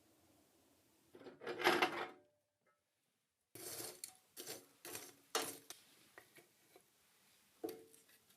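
Cooking utensils and dishes clattering: a short burst of scraping and clinking, then a run of separate knocks and clinks, with one more knock near the end.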